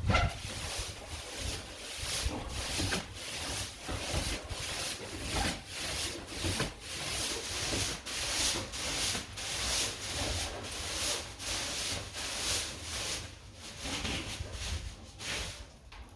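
Hand-held steel wire brush scrubbing a stone wall in quick back-and-forth strokes, a rasping scrape about twice a second, cleaning the stones.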